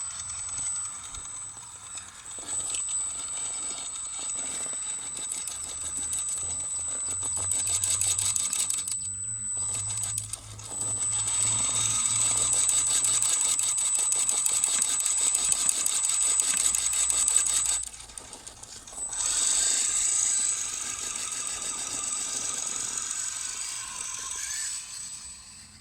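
Electric motor and gearbox of a scale RC crawler truck (a GAZ-66 model) whirring as it drives, with a steady high whine over a gritty gear noise. It stops briefly about nine seconds in and again near eighteen seconds, then runs on.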